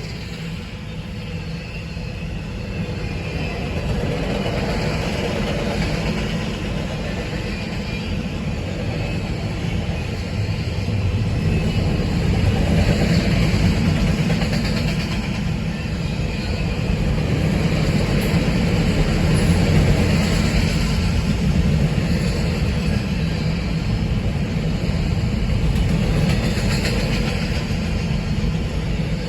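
Freight train cars rolling past: a steady rumble of wheels on the rails, swelling a little louder midway.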